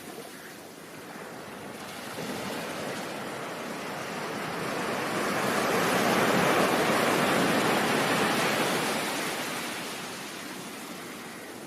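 Ocean surf: a wave's rush swells in, is loudest about six to eight seconds in, then washes back and fades.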